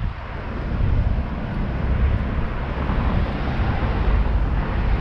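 Outdoor street ambience: a steady low rumble with a noisy hiss over it, and no single distinct event.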